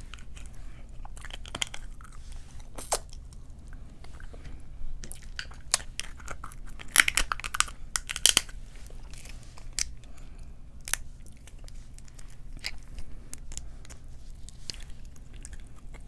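A person chewing and biting seafood-boil food close to the microphone: wet mouth clicks and crunches, in a louder cluster about seven to eight seconds in.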